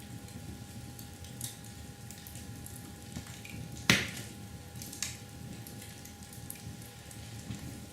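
Scattered drips and light taps, with one sharp, louder knock about four seconds in.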